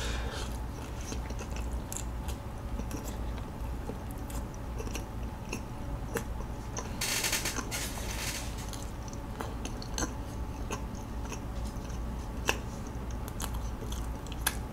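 Close-up mouth sounds of a person chewing a bite of soft sausage pretzel, with many small wet clicks and smacks. About seven seconds in there is a brief rushing hiss lasting a second or so.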